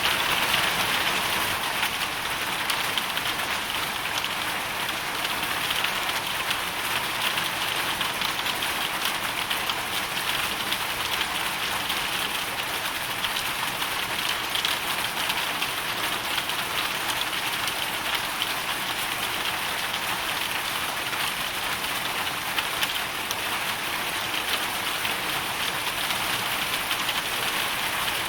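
Hailstorm: a steady dense hiss of falling hail and rain, full of small rapid ticks of stones striking.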